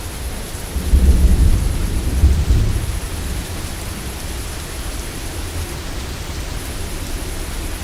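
Steady rain falling, with a low rumble of thunder that swells about a second in and fades out by about three seconds.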